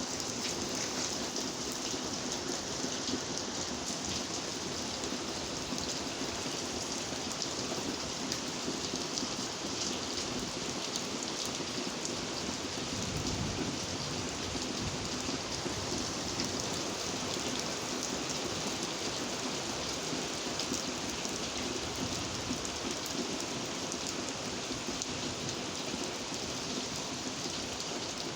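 Steady rain: an even hiss of falling rain with many small drop ticks.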